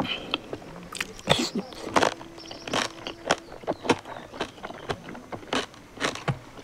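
Close-miked eating: a person chewing and biting into a meal of pork and rice, with irregular sharp mouth clicks and crunches several times a second.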